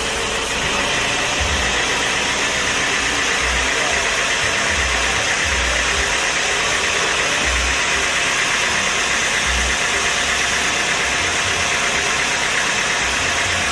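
A machine engine running steadily, with a fast fine pulsing in its upper tone starting about a second in and a few irregular low thumps.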